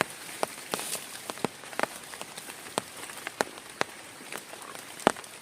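Heavy rain falling, a steady hiss with large drops striking a surface irregularly, a few each second, one especially loud strike near the end.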